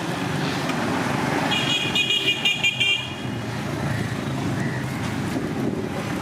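A vehicle horn beeps in a quick run of about six short, high-pitched toots around the middle, over a steady hum of street traffic.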